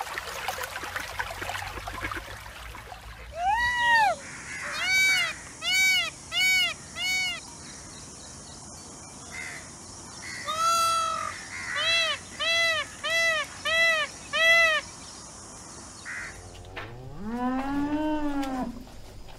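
A coypu crunching on a piece of food, then a peacock calling in two rapid series of loud, short calls that each rise and fall, each series opening with a longer call, over a steady high hiss. Near the end a cow gives one long moo that rises and then falls.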